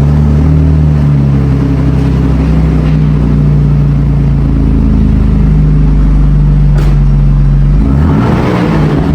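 BMW 528i exhaust with the resonator and muffler deleted, the engine running loud and steady, then a brief rev about eight seconds in.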